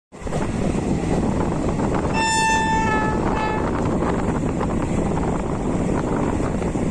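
Indian Railways express train running at speed, heard from an open coach doorway: a steady rumble of wheels on the track mixed with rushing wind. About two seconds in, the locomotive's horn sounds one long note lasting nearly a second, followed shortly by a shorter, fainter toot.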